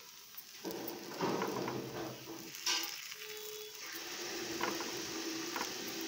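Gunta ponganalu (paniyaram) batter balls sizzling in oil in the cavities of a paniyaram pan. The sizzle grows louder after about half a second, and a wooden stick turning them gives a few light clicks and scrapes against the pan.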